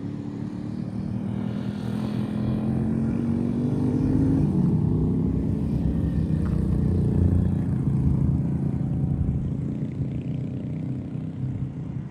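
A motor vehicle's engine approaching and passing close. The engine pitch shifts as it goes, the sound swells to its loudest in the middle and fades near the end.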